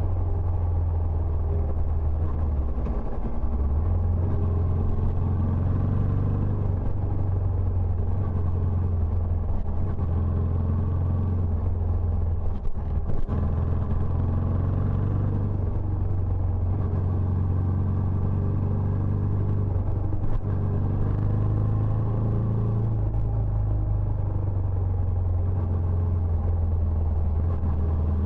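Benelli Imperiale 400's air-cooled single-cylinder engine running steadily through its stock exhaust, a constant low rumble with a brief dip about thirteen seconds in.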